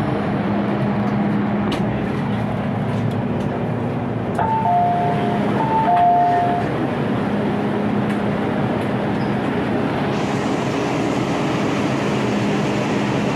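MTR M-Train electric metro train running, a steady rumble with a low hum and faint clicks from the track. About halfway through, a high-then-low two-note chime sounds twice, the onboard chime before a train announcement.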